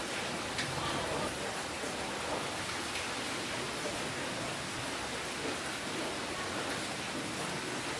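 Steady rainfall, an even hiss with a few separate drops ticking through it.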